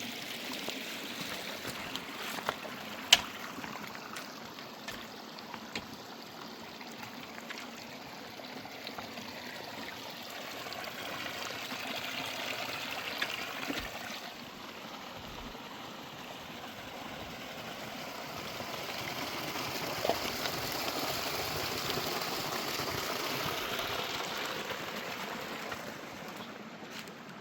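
Running water of a rain-swollen mountain stream flowing steadily, swelling louder at times. A single sharp knock sounds about three seconds in.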